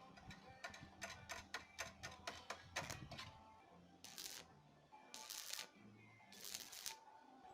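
A quick run of light taps, about four or five a second, then three short scraping strokes a little over a second apart.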